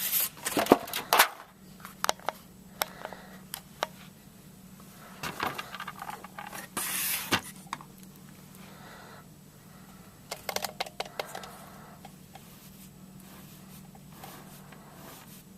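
Hands handling a small diecast model plane and its plastic stand: sharp clicks and knocks with short rustles, in three clusters at the start, around six seconds in and around eleven seconds in, over a steady low hum.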